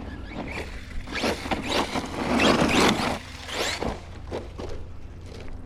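Loose gravel and dirt crunching and scattering in a series of rasping bursts, loudest about halfway through, over a steady low rumble.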